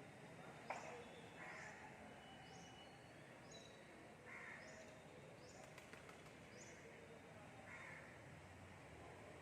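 Faint crows cawing now and then, with short, high bird chirps repeating about once a second.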